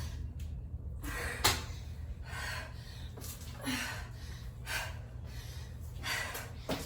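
A woman breathing hard from exertion, with short gasping breaths about once a second and a sharp thump about a second and a half in.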